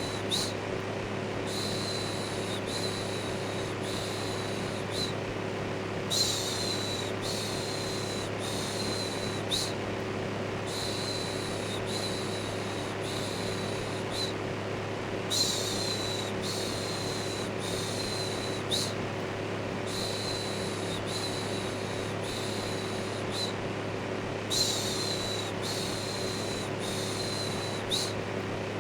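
A steady electric fan hum overlaid with a rhythmic 'shhh' shushing, repeated a little faster than once a second in runs with short pauses between them. It is the white noise used to soothe a baby to sleep.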